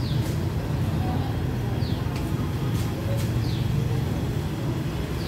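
Diesel-hauled local passenger train rolling slowly along the platform, a steady low rumble. Three short, high, falling chirps come over it near the start, at about two seconds and at about three and a half seconds.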